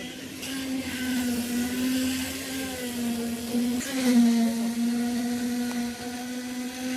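A motor running steadily with a hum that wavers slightly in pitch, and a brief louder noisy surge about four seconds in.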